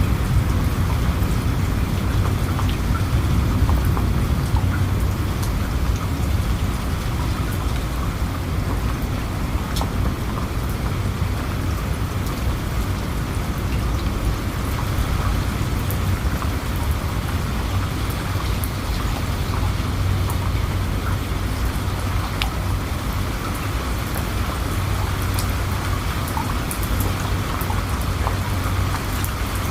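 Steady heavy rain falling, with scattered drop ticks over a continuous low rumble that may be distant thunder.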